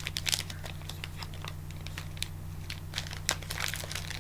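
A wafer bar's wrapper being worked open by hand, crinkling and crackling in short irregular clicks, over a steady low hum.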